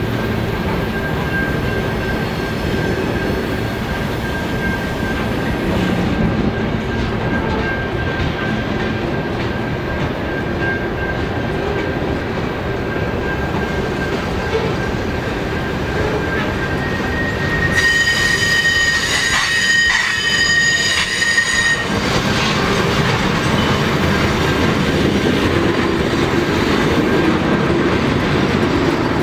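Freight train of covered hopper cars rolling past on a curve, a steady noise of wheels on rail with a thin high wheel squeal throughout. About 18 seconds in, a louder, shriller squeal with overtones rings for some four seconds, then drops back.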